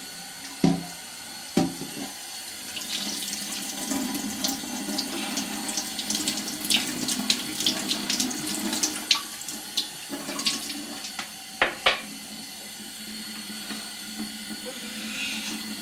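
Tap water running into a sink while dishes are rinsed, with dishes and spoons clinking and a few sharp knocks.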